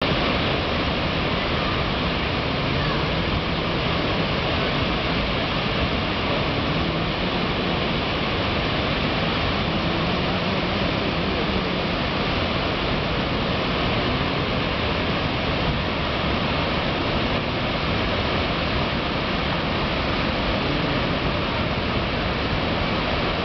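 Water released from Chungju Dam's open spillway gates, pouring down in a loud, steady, unbroken rush.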